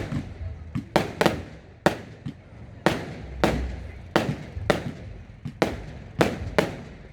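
Fireworks display: a rapid, irregular string of sharp bangs from bursting aerial fireworks, about two a second, each with a short fading echo.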